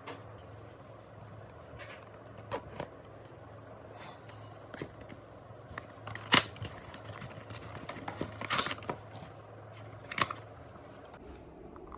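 Handling of a plastic toy and its packaging: scattered clicks and short rustles, with one sharp click about six seconds in, over a low steady hum.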